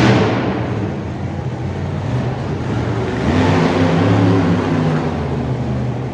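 Monster truck engine running and revving, swelling louder right at the start and again about three and a half seconds in.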